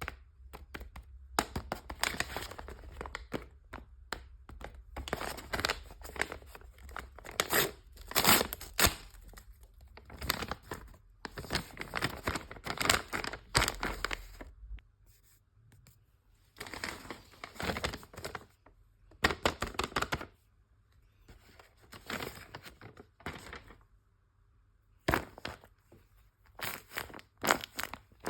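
Paper and wrappers being torn open and crinkled by hand, as when a handmade paper blind bag is unwrapped. The sound comes in irregular bursts of rustling and tearing with a few short pauses.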